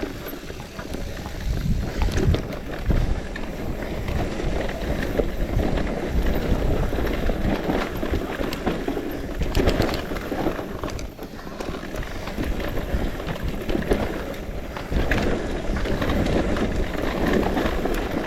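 Wind buffeting the microphone during a bicycle ride, with the rolling and rattling of the bike running on underneath.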